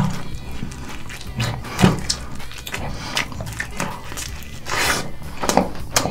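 Crunching and chewing of a crispy-coated fried chicken drumstick in sticky red sauce, with irregular crackling crunches, a few louder ones about two seconds in and near the end.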